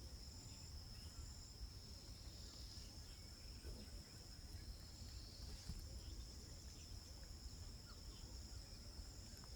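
Faint, steady high-pitched insect trilling, with a low rumble underneath.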